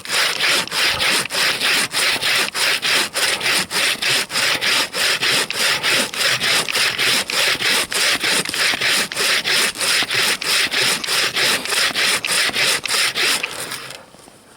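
Bow saw cutting through a frozen fir log about 20 cm thick, in quick, even rasping strokes that stop near the end.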